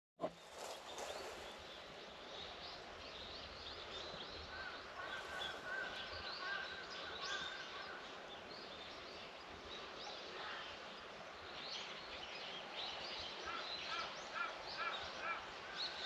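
Birds chirping and calling over a faint steady outdoor hiss, with a run of short repeated calls near the end. There is a brief bump right at the start.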